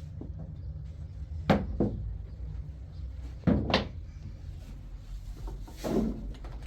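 A few knocks and clunks of household objects being handled, two pairs close together then a duller one near the end, over a steady low hum.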